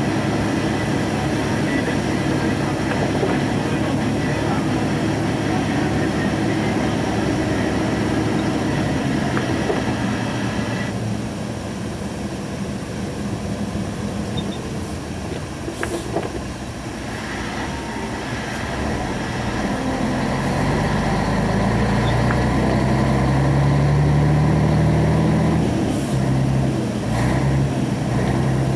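Truck engine running while driving, heard from inside the cab with steady road and tyre noise. About twenty seconds in, the engine's low note grows louder and steps in pitch as it pulls harder.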